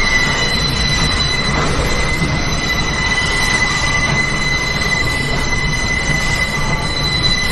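Subway car's steel wheels squealing against the rails in a steady high-pitched screech that starts abruptly, over the constant rumble of the moving J train as it rounds a curve on the approach to a station.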